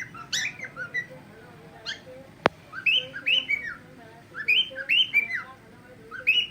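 Cockatiel calls: short chirps and whistles that glide up and down in pitch, coming in quick groups of two to four. There is a single sharp click about two and a half seconds in.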